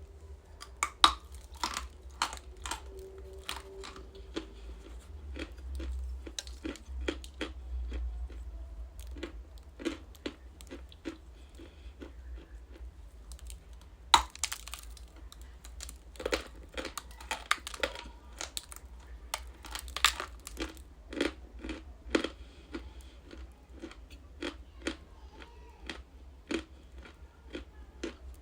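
Bites and chewing of chalk: crisp, repeated crunches and crackles, with a few loud snaps about a second in, near halfway and about two-thirds through, over a low steady hum.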